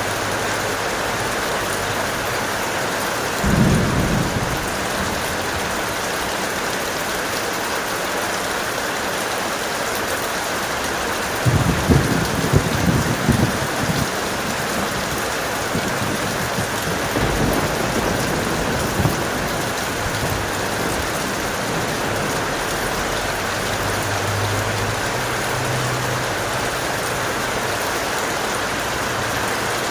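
Steady heavy rain with thunder rumbling over it: a short rumble about three and a half seconds in, a stronger rolling rumble a little before the middle, and a fainter one soon after.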